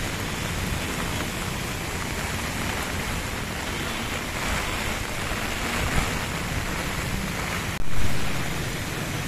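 Steady rush of heavy rain over a flooded road, with wind buffeting the microphone. Near the end the sound breaks off for an instant and comes back louder, then eases back.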